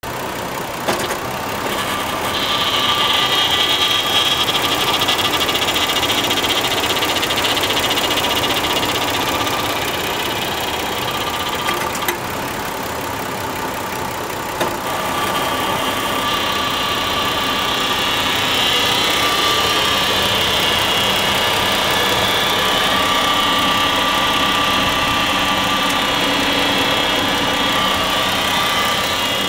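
2009 Hyundai Santa Fe idling with an unexplained high-pitched noise that is present only with the transmission in gear (drive or reverse). The noise begins about two seconds in, drops away for about four seconds midway, and then comes back. Single clicks come just before it starts and just before it returns.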